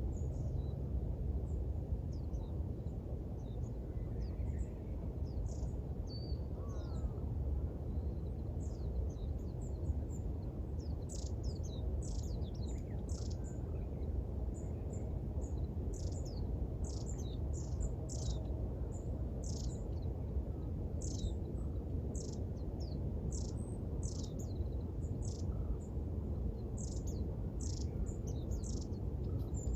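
Small birds chirping in a dawn chorus: many short, high, downward-sweeping chirps that grow thicker after about ten seconds. Under them runs a steady low background rumble.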